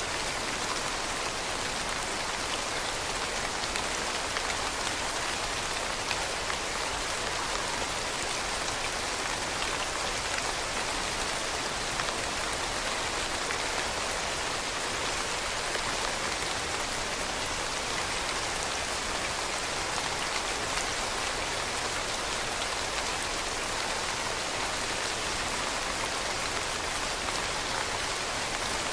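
Steady rain falling on leaves, an even hiss of many drops pattering with no let-up.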